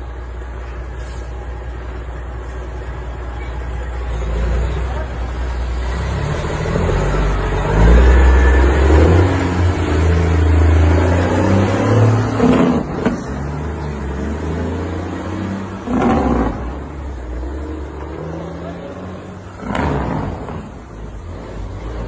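A vehicle engine running close by, swelling to loud revving about eight to twelve seconds in, with short loud bursts of noise three times in the second half.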